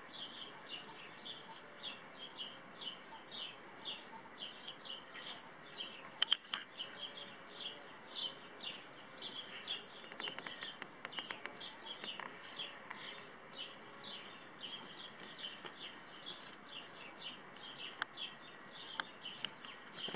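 A bird chirping over and over, about two to three short, high chirps a second, with a few sharp clicks here and there.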